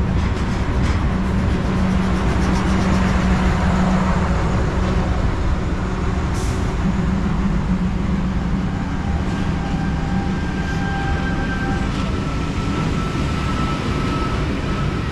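Diesel-hauled track-maintenance work train rolling past close by: a steady low rumble of locomotive engine and wagons, with a droning hum. Faint whining tones join in about nine seconds in.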